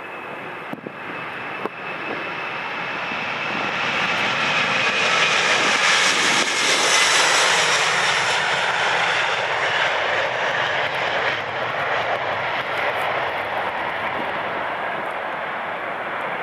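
Boeing 747-400's four turbofan jet engines at take-off power as the airliner passes: the noise swells to its loudest about six to eight seconds in, with a whine falling in pitch, then slowly fades as it moves away.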